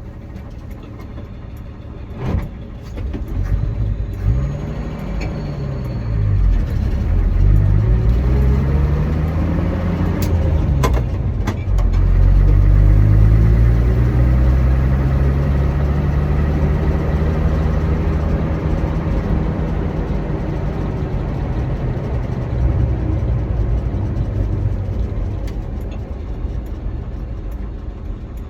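1966 Chevrolet C10 pickup engine pulling up through the gears: its pitch climbs and drops back several times, then holds steady and slowly falls away near the end. A sharp click sounds about two seconds in, and a few more around ten to eleven seconds in.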